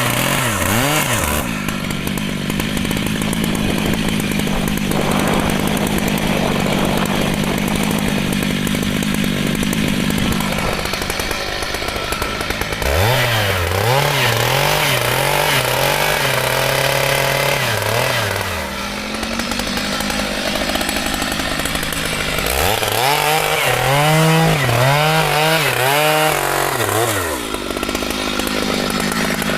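Two-stroke chainsaw running and cutting mahogany wood. Around the middle and again near the end, the engine pitch rises and falls over and over as the throttle is worked.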